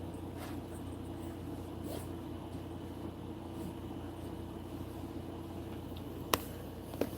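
A steady low mechanical hum, with a single sharp click about six seconds in and a softer one just before the end.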